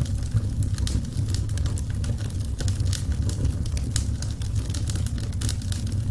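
Wood fire crackling, with frequent sharp snaps and pops over a steady low rumble of the burning fire.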